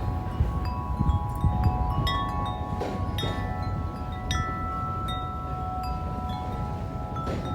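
Corinthian Bells 36-inch wind chime ringing in strong wind, its tubes struck again and again so that several long, overlapping tones hang together, with wind rumbling on the microphone.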